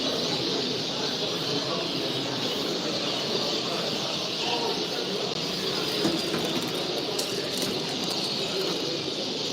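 A flock of small birds chattering together in a dense, unbroken chorus.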